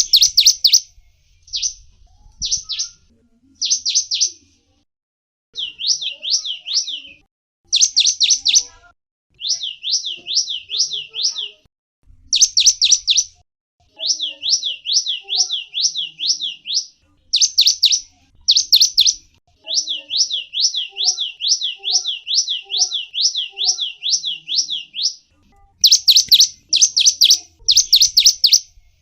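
A small songbird, the gelatik wingko, singing phrase after phrase of rapid, high chirps, each note sweeping downward, several notes a second, with short pauses between phrases.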